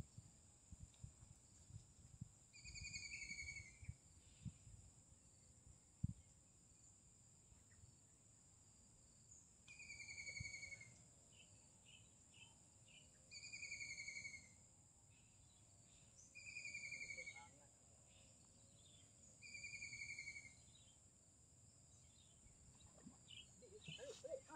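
A bird calling five times at intervals of a few seconds, each call a short, slightly falling note under a second long. A faint low rumble with small knocks runs under it, with one sharper thump about six seconds in.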